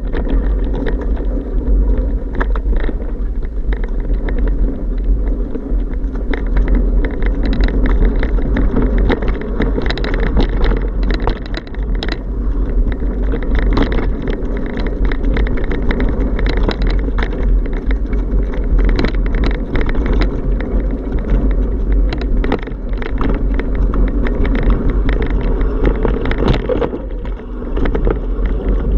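Wind buffeting the microphone in a steady loud rumble during a bike ride, with frequent small rattles and clicks as it runs over the road surface.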